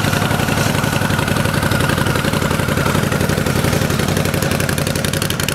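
Harley-Davidson V-Rod's 1250cc liquid-cooled V-twin idling steadily through aftermarket Toxic Pipes exhaust, pretty loud.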